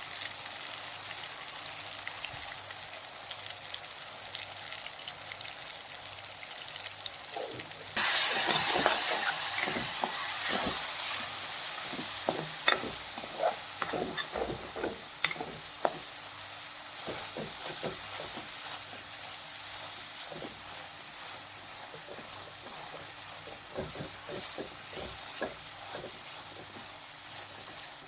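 Food frying in a pan, sizzling steadily; about eight seconds in the sizzle suddenly gets much louder, with a run of sharp clicks and taps of a utensil stirring in the pan, which thin out to occasional taps.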